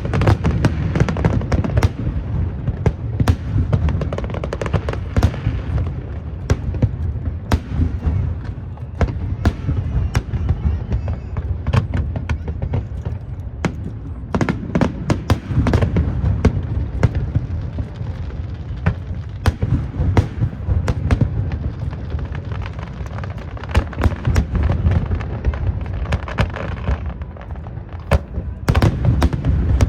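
Aerial fireworks display: a continuous run of booming bursts and sharp crackling reports over a rolling low rumble, with dense volleys near the start, in the middle and again near the end.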